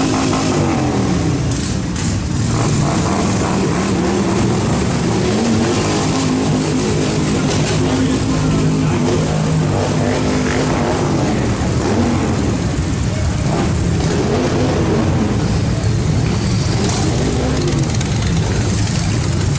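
Motorcycle engines running in the street, their pitch rising and falling again and again as the bikes rev and ride past.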